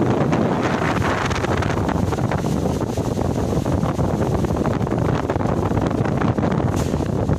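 Strong wind buffeting the microphone in a rain-and-wind storm, a loud, steady rushing noise.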